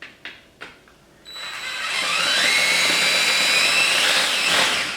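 Power drill drilling out a rivet on an old mechanical camper strut. A few light clicks come first, then the drill starts about a second in and runs with a whine that rises in pitch, stopping just before the end.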